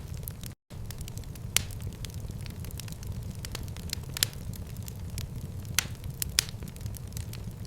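Wood fire burning in a fireplace: a steady low rumble of flames with scattered sharp crackles and pops, a few louder than the rest. Just over half a second in the sound drops out to silence for a split second.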